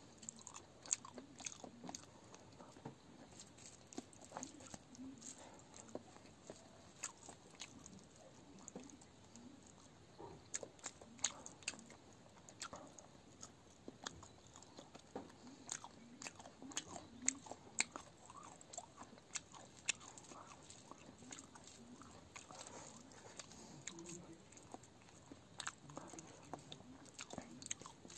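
A man chewing mouthfuls of rice mixed with a green chutney, close to the microphone: wet chewing with many short, sharp clicks at an irregular pace.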